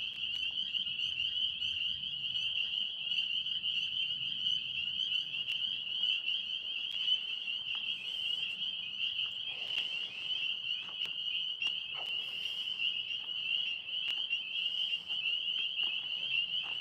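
Chorus of tree frogs calling from the trees overhead: a dense, steady, high-pitched trilling that does not let up.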